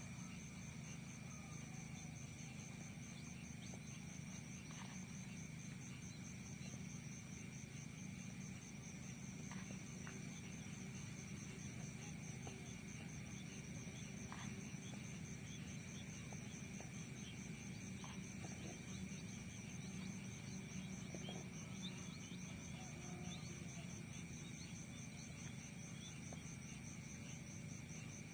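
Insects trilling steadily in a high, rapidly pulsing note over a constant low background hum, with scattered short chirps.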